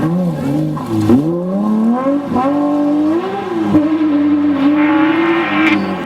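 Porsche 911 GT3 RS flat-six engine at high revs. Its pitch falls and rises about a second in, climbs for the next two seconds, then holds fairly steady.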